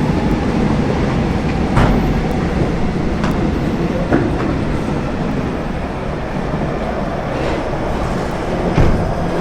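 Subway train running on the rails: a steady rumble with a few sharp clacks from the wheels, one near the end louder than the rest.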